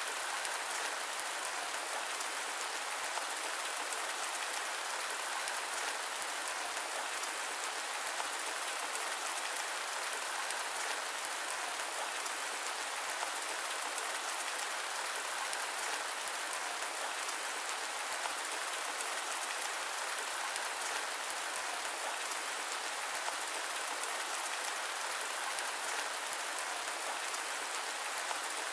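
Steady rain: an even hiss of many small drops with no change in strength and no thunder.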